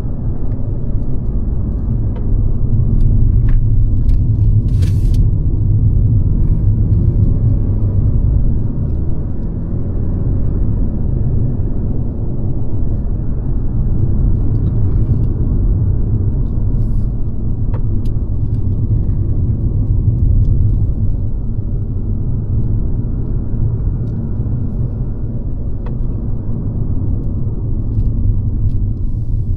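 Mercedes-Benz C-Class (W206) being driven: a steady, low rumble of engine and road noise, with a few faint clicks here and there.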